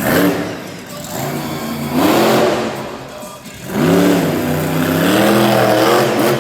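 Monster truck engine revving hard in repeated surges, its pitch climbing and falling with each burst of throttle, the longest surge from about 4 seconds in to near the end.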